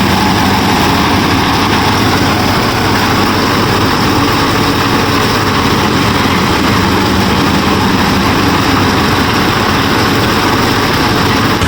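Motors of a DIY miniature combine harvester running steadily, a dense mechanical running noise with a low hum.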